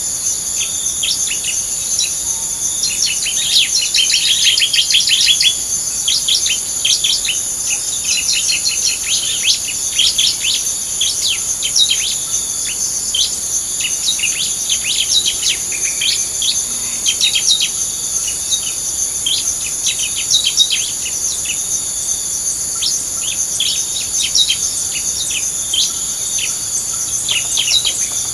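Rapid, dense high chirping of small birds, over a steady high-pitched buzz of insects.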